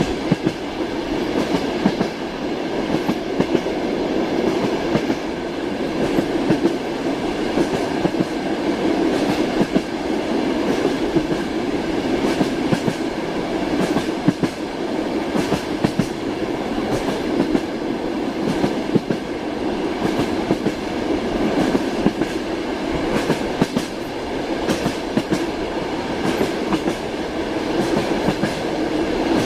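Moving passenger train heard from inside a compartment: wheels clacking over the rail joints above a steady rumble.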